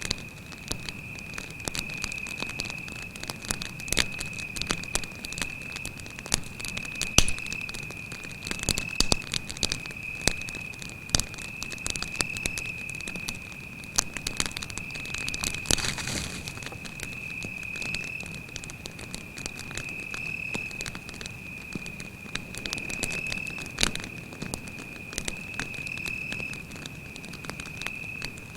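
Wood campfire crackling with frequent sharp pops and a brief burst of hissing about halfway through, over a cricket's steady high-pitched trill.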